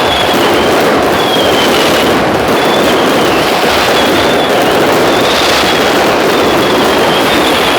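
Fireworks display going off as a dense, continuous barrage of rapid crackling bursts at a steady, loud level. High whistles sound repeatedly over it, each dipping slightly in pitch.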